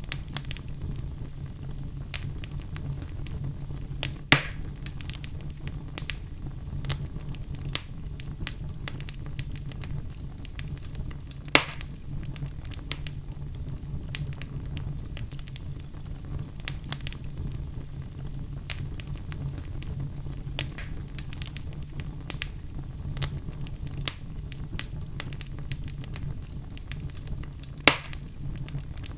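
Log fire burning in a fireplace: a steady low rumble of flames with frequent small crackles, and three louder sharp pops from the wood.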